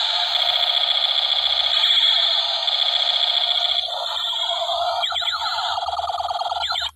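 Battery-powered toy blaster gun playing its electronic firing sound effect, a loud steady warbling alarm-like tone. About five seconds in it turns into quick sweeping chirps, and it cuts off suddenly at the end.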